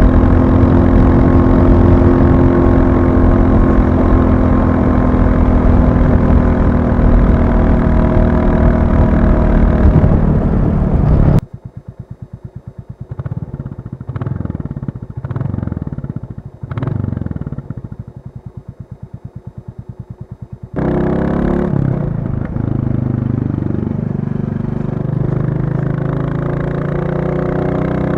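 Royal Enfield Classic 350's single-cylinder engine running under way. About eleven seconds in it cuts abruptly to a much quieter, even thumping with three brief swells in level, then about twenty-one seconds in it cuts back to the loud riding sound.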